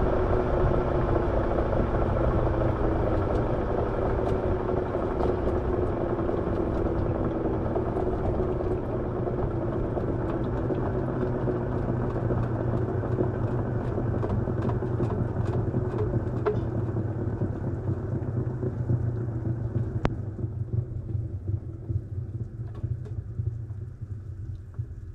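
Washing machine running, a steady hum with a churning noise that slowly fades and drops a little in pitch over about twenty seconds as the drum winds down, with a few light ticks near the end.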